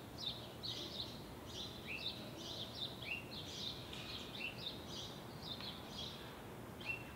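Small songbirds chirping steadily, short high notes coming in quick clusters several times a second, over a faint low background hum.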